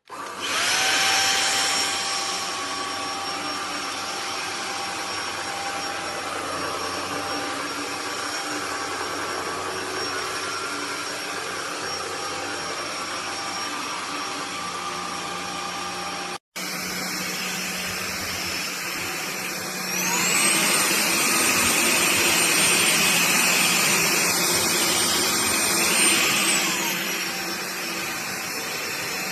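Cordless stick vacuum cleaner motor spinning up with a rising whine and running steadily. After a short break it runs again, and about two-thirds of the way through its whine rises higher and louder for several seconds, then drops back.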